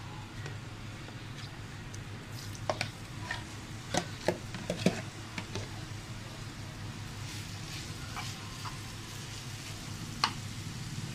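Chicken mince frying in hot ghee in a pan, sizzling steadily, with a run of sharp clinks and scrapes of a metal spoon against the pan about three to five seconds in and one more clink near the end.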